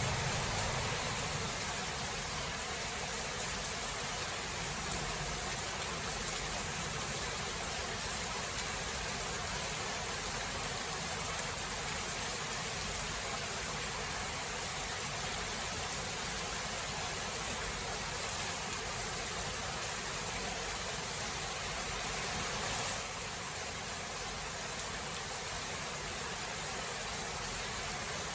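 Steady hiss of heavy rain from a thunderstorm recording, with the low rumble of thunder dying away in the first second. About three-quarters of the way through, the rain hiss drops slightly in level.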